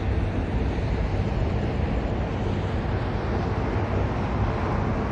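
Steady road traffic noise with a low rumble, mixed with wind on the microphone.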